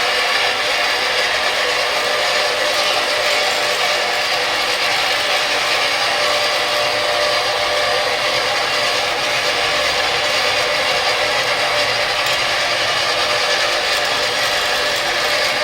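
Floor grinding machine running steadily: an even, unbroken mechanical grinding noise with a faint steady hum in it.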